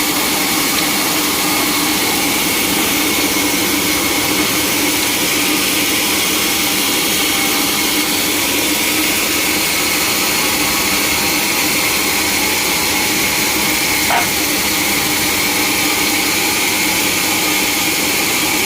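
Sawmill machinery running steadily, a constant hum and hiss that holds the same pitch throughout, with one brief click about fourteen seconds in.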